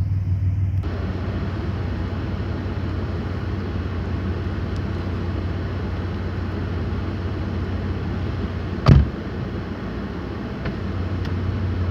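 A car running, with a steady low engine hum under a broad hiss that grows louder about a second in. One sharp, loud thump comes near the nine-second mark.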